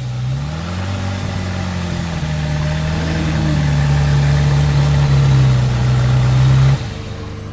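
Zenvo TSR-S's 5.8-litre twin-supercharged V8 running at idle while the car stands still. The revs rise slightly in the first second, then hold steady, and the sound drops off abruptly near the end.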